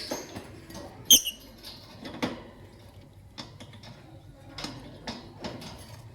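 A lovebird giving one sharp, high chirp about a second in, among scattered light clicks and scratching sounds.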